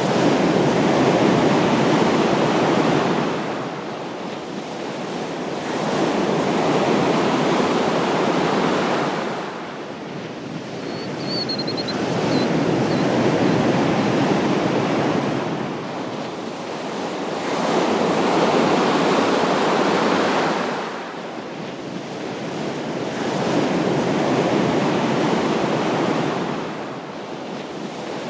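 Ocean waves breaking and washing in, each surge swelling and fading away, about one every five to six seconds.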